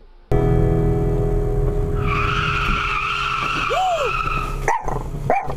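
Car tyres squealing in a skid over steady road and engine noise. The squeal sets in about two seconds in and lasts a couple of seconds.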